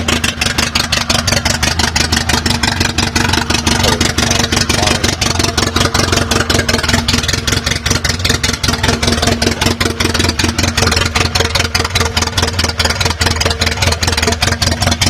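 Toyota 2E 1.3-litre four-cylinder engine on twin Weber DCOE 40 carburettors and a 292 cam, running at a steady idle just after its first start, with rapid, even exhaust pulses.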